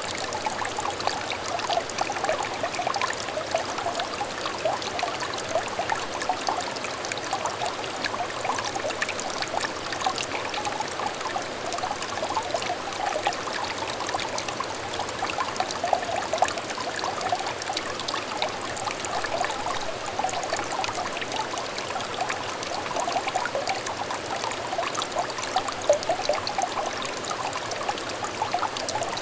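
A small stream trickling and burbling steadily over stones, with dense small splashes and a bright gurgle, unchanging throughout.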